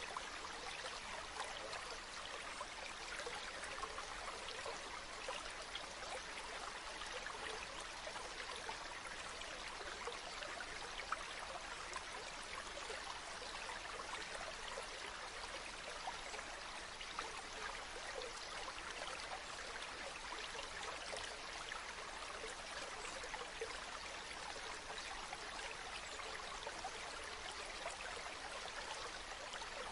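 Running water flowing steadily, a continuous splashing rush full of small droplet splashes, with little deep rumble.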